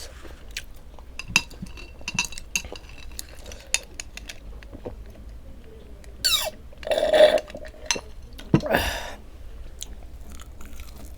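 Close-miked eating sounds from a person eating ramen and chicken wings: chewing with scattered small clicks, and two louder noisy bursts about six and eight and a half seconds in.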